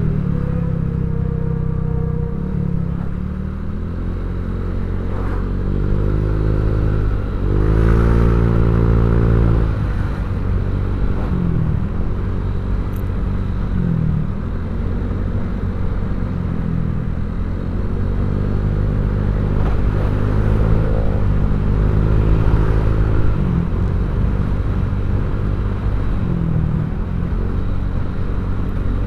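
Honda Vario 150 scooter's single-cylinder engine running through an aftermarket ZRC slip-on exhaust, its throttle opened and eased off repeatedly. The biggest rev swell comes about a quarter of the way in, followed by several shorter dips and rises.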